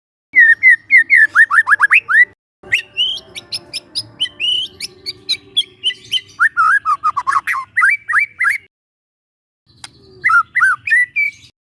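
Young wild white-rumped shama singing: a run of quick down-slurred whistles, then a longer varied phrase of high clear notes and clicks, and after a pause a short closing phrase.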